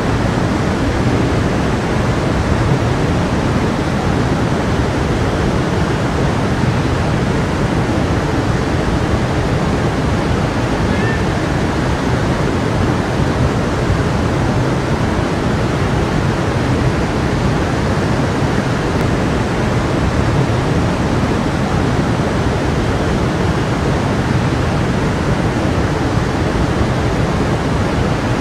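Small stream running over rocks, an unbroken steady rush of water.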